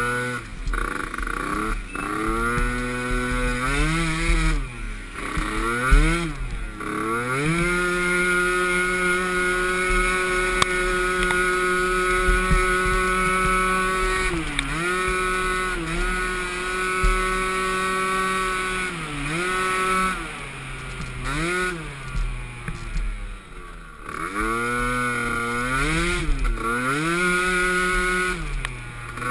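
Small youth ATV engine revving up and down as the quad is ridden, the pitch climbing with throttle, held steady at high revs for several seconds, then dropping back in short dips before climbing again near the end.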